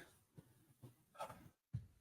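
Near silence: room tone with a few faint, brief sounds, the clearest a little after a second in.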